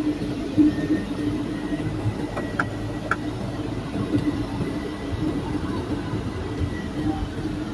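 Pratt & Whitney PT6A-66D turboprop engine of a TBM 930 running steadily, a constant hum with a thin high whine over it. Two short clicks about two and a half and three seconds in.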